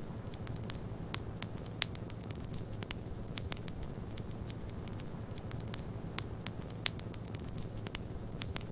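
Wood fire crackling, with irregular sharp pops and snaps, two of them louder than the rest (one near two seconds in, one near seven), over a steady low rumble of snowstorm wind.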